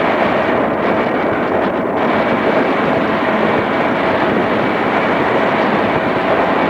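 Interior running sound of a JR East 211 series electric multiple unit on the move: a steady rumbling rush of wheels on rail, with a faint steady whine.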